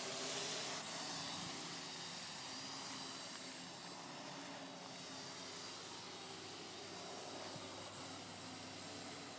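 Parrot AR.Drone quadcopter in flight, its four electric motors and propellers giving a steady whirring hum with a thin high whine.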